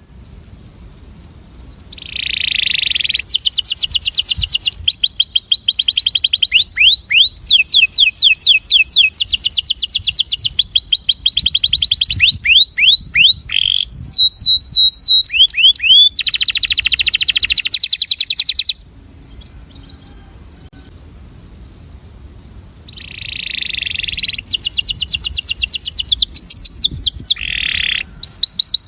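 Male canary singing its breeding attraction song: long rolling trills of rapidly repeated notes, in phrases that run for many seconds. It pauses for a few seconds about two-thirds of the way in, then starts again.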